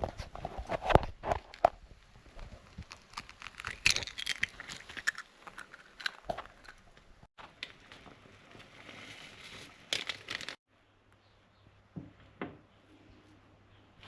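Food packaging being crinkled and torn open, with irregular clicks and rustles. The rustling cuts off abruptly about ten seconds in, followed by two soft knocks.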